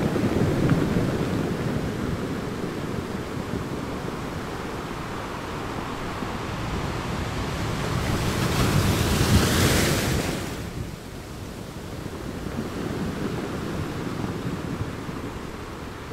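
Surf on a sandy beach: a continuous wash of small waves breaking and running up the sand. One wave swells loudest about eight to ten seconds in, then the sound falls away fairly suddenly.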